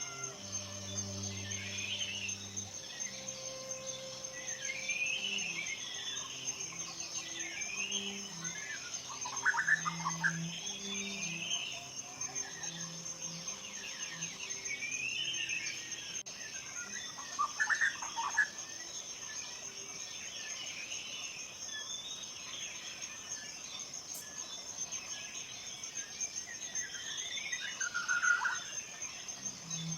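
Birds singing in short, repeated chirping phrases, with louder calls about ten, eighteen and twenty-eight seconds in. Under them run a steady high insect-like trill and soft, slow background music of held low notes.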